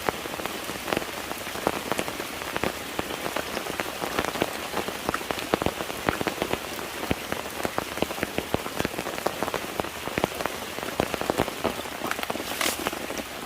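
Steady rain falling, with many separate sharp drop hits close to the microphone and one stronger hit near the end.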